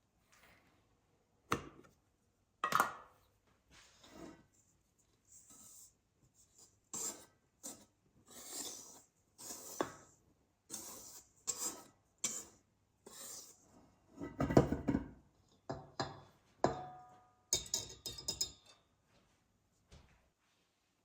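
A run of short clinks, knocks and scrapes of dishes and utensils being handled, with the loudest cluster about two-thirds of the way through.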